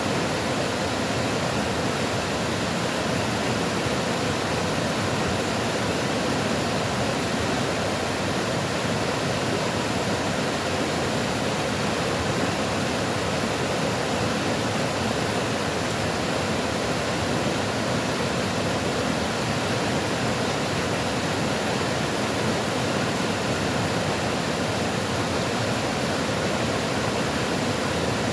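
Water rushing steadily, a continuous even hiss with no breaks or changes.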